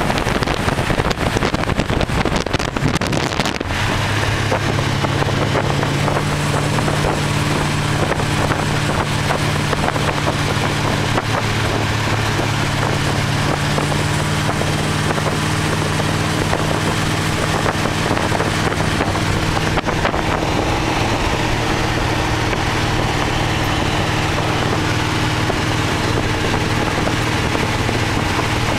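Engine of a 1928 Ford Model A hot rod roadster running while driving, with wind rushing over the microphone in the open car. About four seconds in, the engine settles into a steady, even drone.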